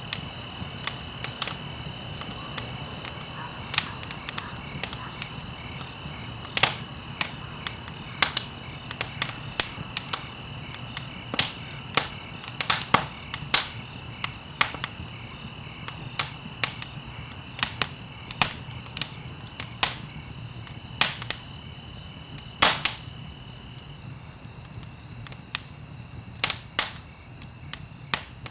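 Wood fire in a fireplace crackling, with irregular sharp pops and snaps, a few loud, over a low steady rumble of the flames. A faint steady high-pitched tone runs underneath.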